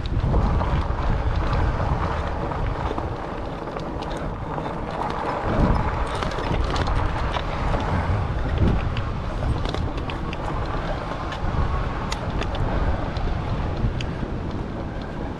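Wind buffeting a chest-mounted action camera's microphone while riding a Rad Rover fat-tyre e-bike, over a steady rumble of tyres on the path, with scattered small clicks and rattles.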